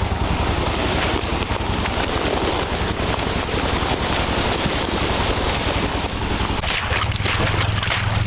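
Boat motor running steadily, with wind rushing over the microphone.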